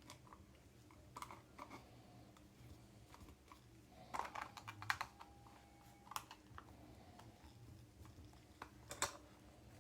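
Scattered light clicks and taps from hands handling small items, with a quick cluster of them about four to five seconds in and a sharper single click near the end, over a faint steady low hum.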